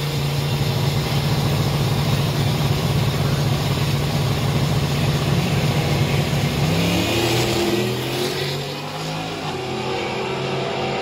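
Race car V8 engines at a drag strip: a steady engine drone, then about six and a half seconds in, rising engine pitch in steps as cars accelerate away, the sound dropping somewhat after about eight seconds.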